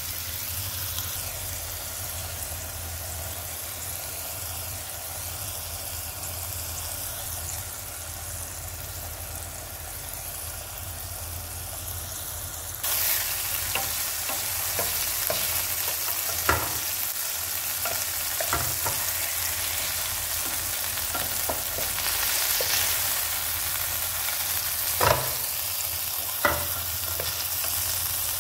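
Tuna steaks sizzling in hot oil in a frying pan, a steady sizzle that gets louder about halfway through. In the second half a wooden spatula clicks and scrapes against the pan, with a few sharper knocks.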